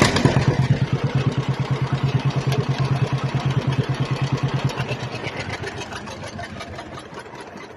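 Tractor engine just started and running with a rapid, even putt-putt pulse that slowly fades.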